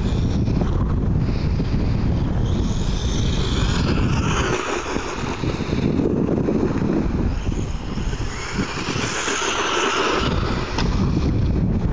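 Wind buffeting the microphone, with the high whine of a 1/18-scale RC stadium truck's electric motor rising and falling twice as the truck speeds past and away.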